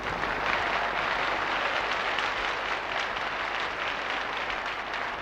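Large concert audience applauding, swelling up at the start and then holding steady.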